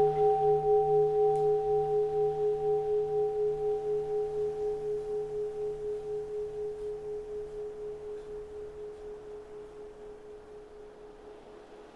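A keisu, a Japanese Buddhist bowl bell, ringing on after a strike. Its deep hum pulses about three times a second and fades steadily until it has almost died away near the end.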